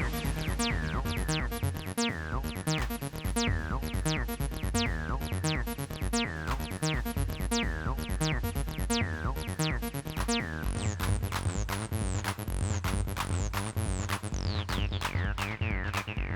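Electronic techno jam from a Roland T-8 drum machine and bass synth: a steady drum-machine beat under a bass line with quick falling zaps. About ten seconds in, the low bass thickens and the falling zaps come closer together.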